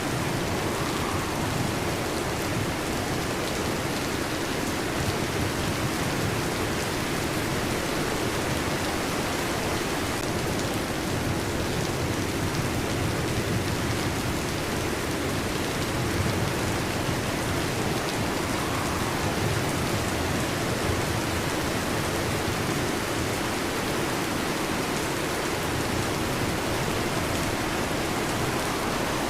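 Heavy rain falling steadily, with a low rumbling undertone and no distinct thunderclap.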